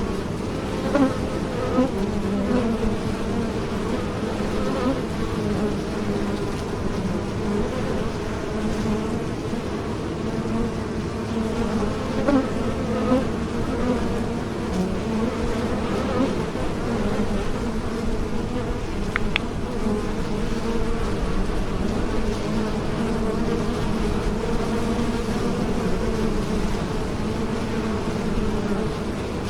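Many bees buzzing together in a dense, continuous hum of wing beats, with many overlapping pitches wavering up and down.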